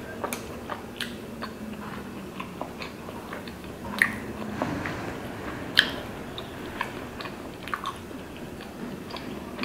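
Close-miked chewing and biting of chewy tteokbokki rice cakes: irregular wet mouth clicks and smacks, with two sharper clicks about four and six seconds in.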